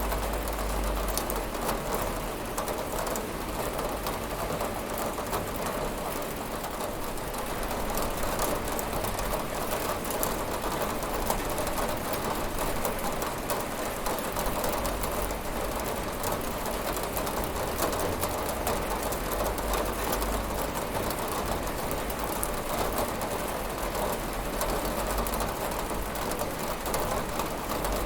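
Steady rain falling on a window: an even hiss of rain with faint scattered drop ticks.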